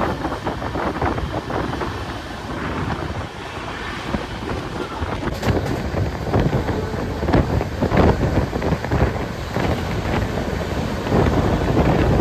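Express train running at speed: wind rushing over the microphone, along with a steady rumble and a run of irregular rattles and knocks from the wheels and coach.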